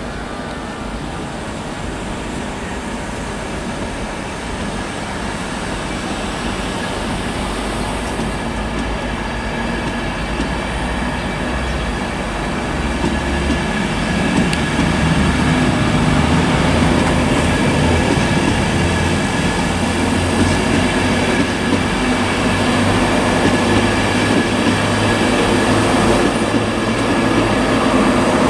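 Electric InterCity 225 train, a Class 91 locomotive with Mark 4 coaches, pulling away from the platform and running past. Its rumble grows steadily louder.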